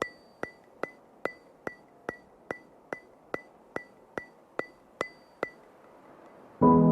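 A ticking sound effect: fourteen sharp, evenly spaced ticks, about two and a half a second, each with a short bright ring. The ticks stop about five and a half seconds in. Soft piano music begins just before the end.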